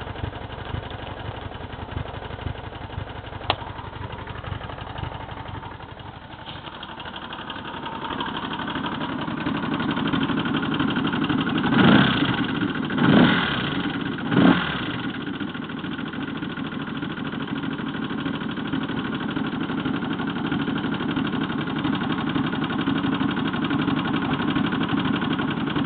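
1984 Honda GL1200 Gold Wing's flat-four engine idling with the knocking being recorded, then three quick throttle blips about twelve to fifteen seconds in, after which it runs on steadily.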